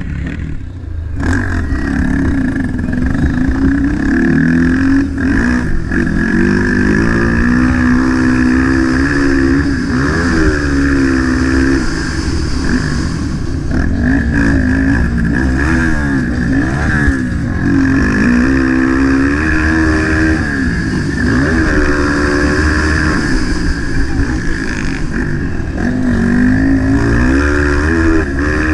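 A 230 cc-class motocross bike's engine at race pace, its pitch rising and falling over and over as it revs up through each gear and backs off.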